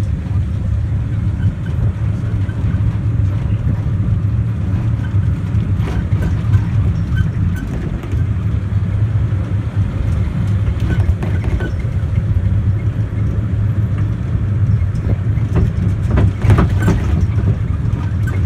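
Small mountain train running along the track, heard from inside the carriage: a steady low rumble from wheels and running gear, with a few short knocks and clicks about six, eleven and sixteen seconds in.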